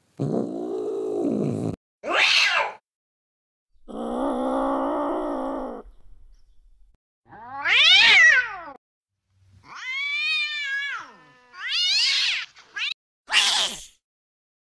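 A string of about eight short recorded angry-cat sounds played one after another with brief gaps: drawn-out yowls and a low growling call, a caterwaul that rises and falls, a meow, and short hissing bursts near the end.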